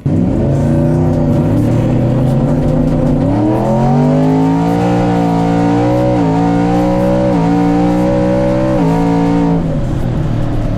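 Twin-turbo 5.0 Coyote V8 of a Ford F-150 drag truck at full throttle on a drag pass. The engine note climbs in pitch, then dips briefly three times, about six, seven and a half and nine seconds in, as the automatic transmission upshifts, and it eases off shortly before the end.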